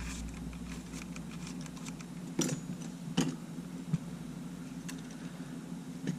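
Small clicks and taps of camera body parts and tools being handled while a Sony A7 is put back together, with a few louder knocks about two and a half, three and four seconds in and again near the end. A steady low hum runs underneath.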